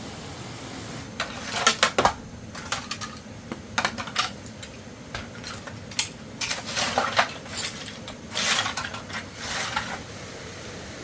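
Irregular clattering of hard objects: a string of sharp clicks and knocks, some in quick clusters, starting about a second in and stopping near the end, over a steady hiss.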